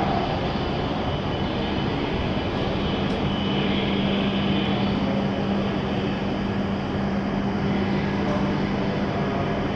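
E7-series Shinkansen train running, a steady rumble with a constant low hum throughout.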